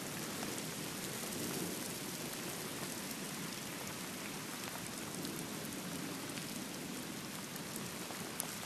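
Heavy rain pouring steadily in a thunderstorm, with a couple of sharp taps near the end.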